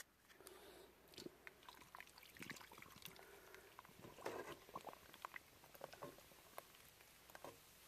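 Near silence with faint, scattered small clicks and taps of hands handling things.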